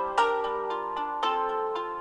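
A new iOS 7 ringtone playing: a short melody of chords, with a new chord struck every half second or so.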